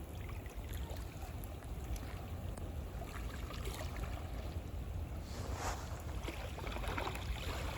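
Wind buffeting the microphone with a steady low rumble, over sea waves washing ashore, with louder surges of surf a little past halfway through.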